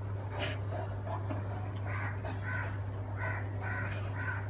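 A string of short animal calls, about two a second, starting about two seconds in, over a steady low hum.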